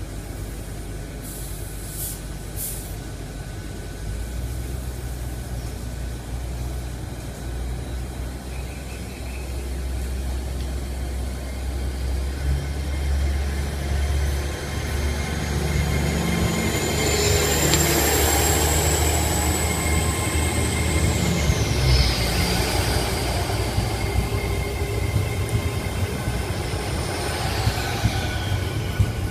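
TransPennine Express Class 802 train pulling away from the platform: a few short hisses about two seconds in, then a low rumble that builds as it gets moving. A whine climbs steadily in pitch as it accelerates, then falls away about twenty seconds in while the carriages roll past.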